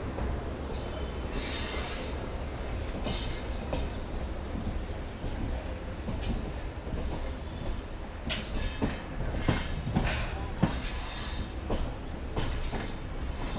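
Indian Railways passenger coach running slowly through station yard trackwork, heard from its open doorway: a steady low rumble from the wheels, several short high-pitched bursts of wheel squeal, and a few sharp knocks as the wheels cross rail joints and points near the end.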